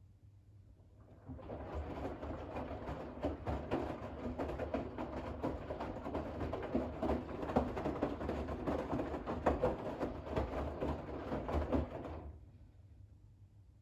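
Bosch WAX32GH1 washing machine drum turning a load of wet towels through rinse water in the final rinse: an irregular sloshing and splashing that starts about a second in and stops about a second before the end, one tumble phase between pauses.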